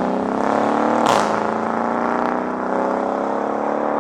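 Mercedes-AMG CLS 63's twin-turbo V8 accelerating hard. Its pitch climbs through each gear, with an upshift about a second in and another at the very end.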